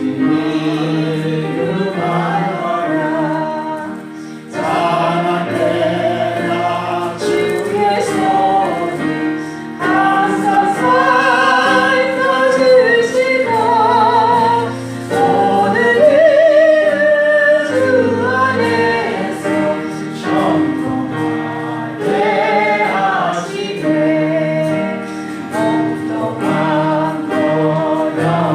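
Worship music: a group of voices singing a gospel hymn together over steady held instrumental chords.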